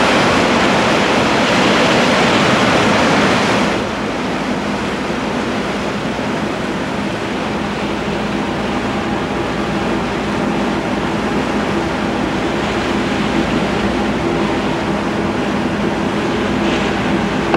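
Sea and wind rushing past a warship under way for a few seconds, then an abrupt change to a steady machinery hum, the ship's engines droning at slow ahead.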